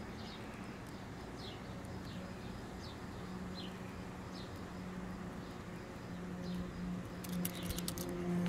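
Faint bird chirps, short and falling in pitch, repeating about twice a second over a steady low hum, with a quick run of sharp clicks about seven seconds in.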